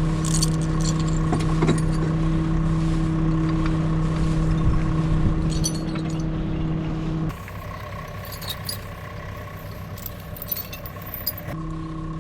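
Vehicle engine running steadily, with scattered light metallic clinks like chain or rigging. The engine hum drops away abruptly a little past halfway and comes back near the end.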